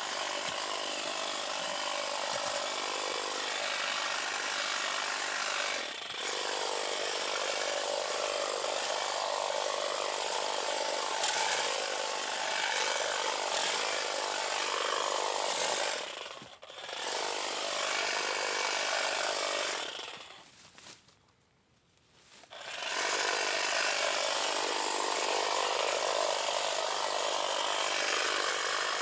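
A power cutting tool running steadily as it cuts back overgrown vines. It stops briefly about halfway through, stops again for a couple of seconds a little later, then starts up again.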